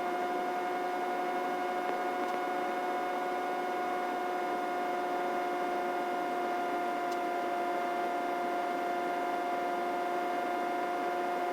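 Helicopter in steady cruise flight: an even drone with several constant whining tones that do not change in pitch or level.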